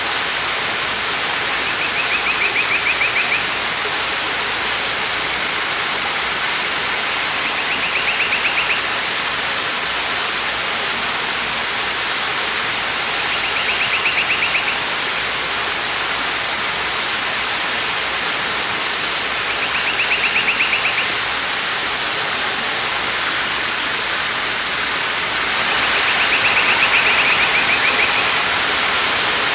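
Waterfall rushing steadily. A high, rapid trill comes through it about every six seconds, five times, the last one longer and louder.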